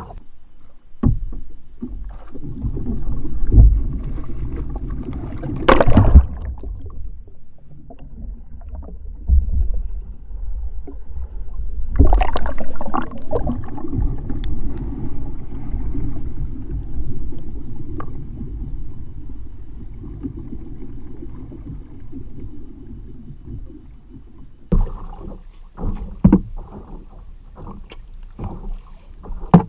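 Water sloshing and splashing around a kayak as it is rolled, with a heavy muffled rumble and several loud splashes. Near the end there are a series of sharp knocks, typical of a paddle and hull.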